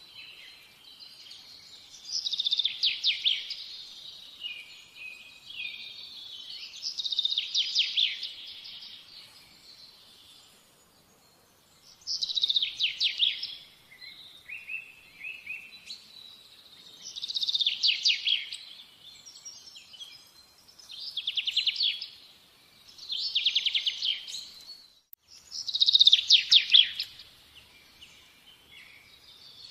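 A songbird singing, repeating fast trilled phrases of a second or two each, about eight of them, a few seconds apart.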